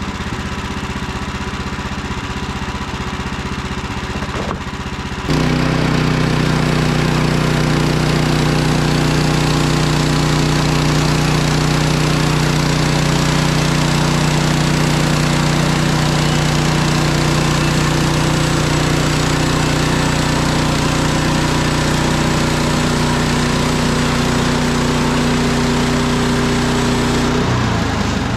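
Gas engine of a Woodland Mills HM130MAX bandsaw mill running at low speed, then about five seconds in jumping to full throttle and staying steady for about twenty seconds while the band blade saws through a spruce log, dropping back to low speed near the end.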